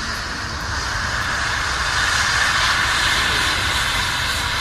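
Airbus A350-1000's Rolls-Royce Trent XWB jet engines, a steady rushing noise that swells about two seconds in and eases slightly near the end.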